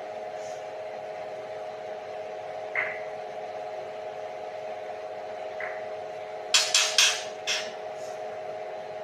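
A steady mechanical hum of several close tones, with a couple of faint short chirps and, about two-thirds through, a quick run of four sharp clicks.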